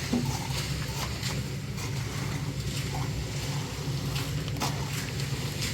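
An engine running steadily at a low drone, with scattered light knocks and clicks over it.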